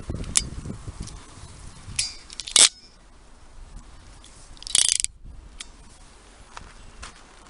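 A hand tool working: a few mechanical clicks, one loud sharp snap a little over two seconds in, and a short rasping scrape about five seconds in.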